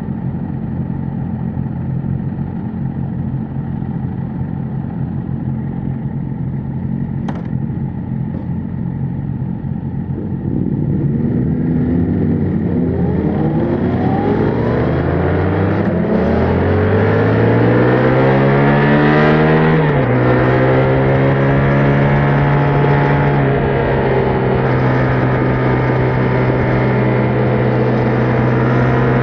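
Yamaha MT-07's 689 cc parallel-twin on its stock exhaust, running steadily and then accelerating about ten seconds in. The engine note rises, drops at a gear change, rises again, and drops at a second shift near twenty seconds, then settles into a steady cruise.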